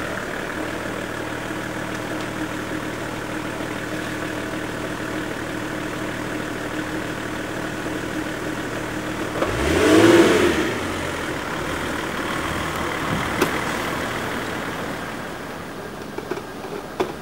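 Car engine idling steadily. About ten seconds in, a vehicle passes close by, its engine pitch rising and falling as it goes. A sharp click follows a few seconds later, and a few light knocks come near the end.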